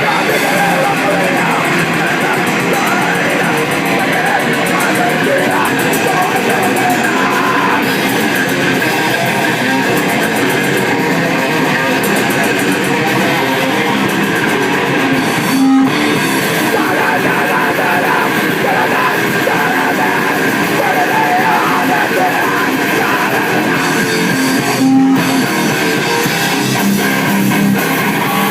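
Grindcore band playing loud, distorted electric guitar and bass with the full band during a soundcheck, a dense, continuous wall of sound. There are two very short breaks, about 16 s and 25 s in.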